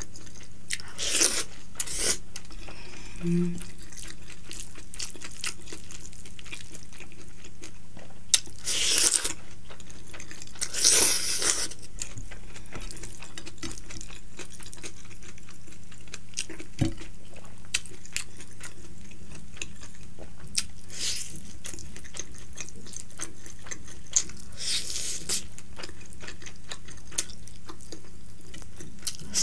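Wet chewing and mouth sounds of someone eating rice and fried fish by hand, in short bursts every few seconds over a steady low hum.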